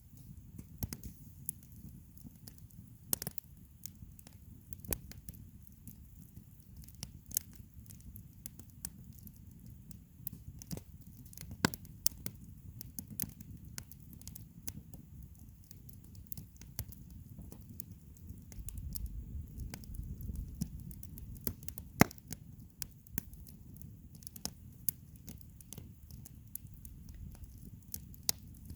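Wood campfire crackling, with irregular sharp pops over a low, steady rumble; two pops stand out as loudest, about twelve and twenty-two seconds in.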